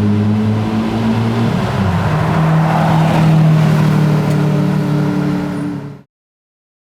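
Lamborghini Murciélago LP670-4 SV's 6.5-litre V12 with a decatted Tubi exhaust, running at low revs with a steady, deep note that drops slightly lower about two seconds in. The sound cuts off abruptly near the end.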